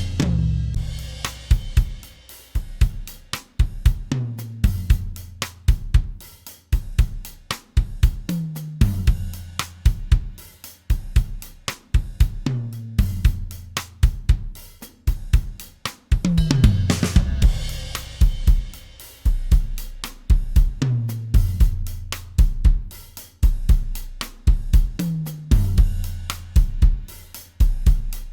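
A mixed studio drum kit recording playing a groove of kick, snare and hi-hat, with a crash and toms about a second in. The same passage starts again about two-thirds of the way through. The first pass is mixed in Pro Tools, the second is run through an SSL Big Six mixer.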